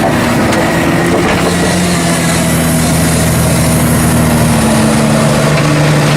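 Diesel engine of a loading shovel running under load, a steady drone whose pitch shifts slightly as it works the bucket.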